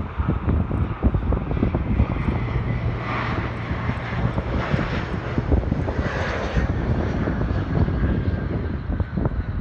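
Jet airliner on landing approach passing by, its engines a rushing sound that swells in the middle with a faint steady whine toward the end, over wind buffeting the microphone.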